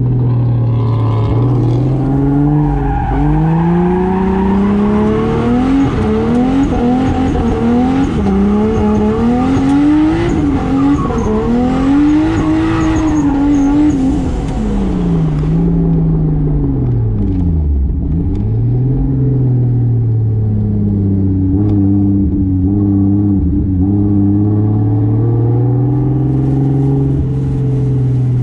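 Single-turbo 2JZ straight-six in a Toyota Soarer accelerating hard under full throttle, its revs climbing in a series of rises and dips, then falling away a little past the middle as the car slows and settling to steady low revs.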